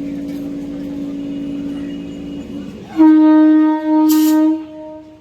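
Train horn sounding: a steady horn tone, then about three seconds in a louder, slightly higher blast, broken once briefly, with a short hiss near its end.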